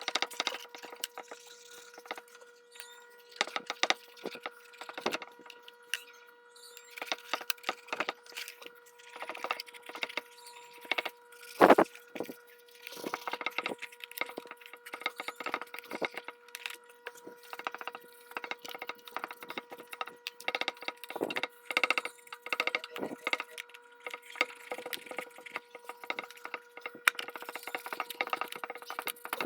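Irregular clicks, taps and knocks of small metal parts and tools being handled while a domestic sewing machine is worked on, with one sharper knock about twelve seconds in. A steady faint hum runs underneath.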